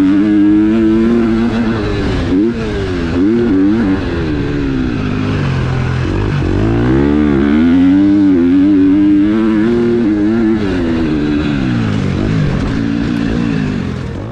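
KTM 250 SX-F four-stroke single-cylinder motocross engine ridden hard, revs repeatedly rising and falling with throttle and gear changes; about halfway through the revs drop right off, then climb back up.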